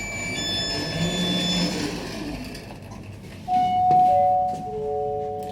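Lift car running with a low noise, then the lift's arrival chime about three and a half seconds in: three descending notes that overlap and ring on.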